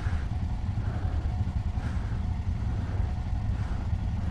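Motorcycle engine idling in stopped traffic, a steady low rumble.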